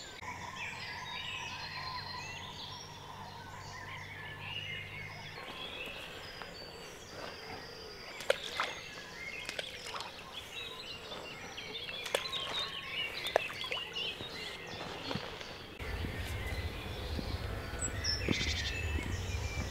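Birds singing and chirping, with a few sharp clicks. A low steady hum stops about five seconds in, and a low rumble starts near the end.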